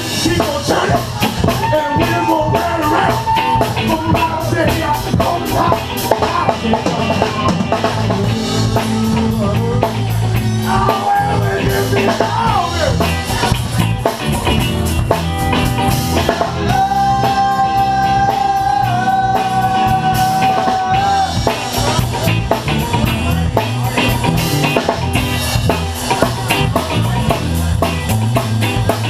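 Live rock band playing an instrumental passage: drum kit with rimshots, bass and electric guitar keep a steady groove. A lead instrument holds long sustained notes about two-thirds of the way through.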